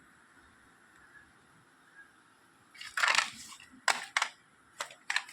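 Plastic audio cassette cases being handled: a short crackle about three seconds in, then several sharp plastic clicks.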